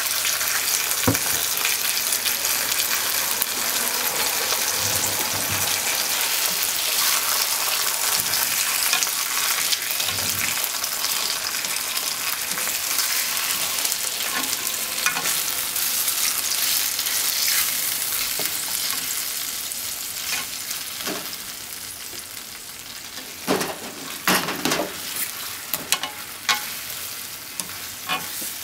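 Pork cutlets and sliced onions sizzling in a non-stick frying pan, with ketchup and sauce bubbling among them as wooden chopsticks stir. The sizzle eases off after about twenty seconds, and a few sharp taps sound near the end.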